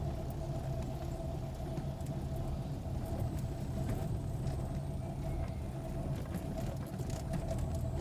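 A car driving slowly, with a steady engine and road rumble.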